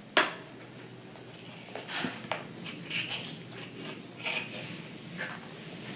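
Close-miked chewing of a crispy fried chicken wing: scattered short crunches and wet mouth sounds, with one sharp click just after the start as the loudest sound.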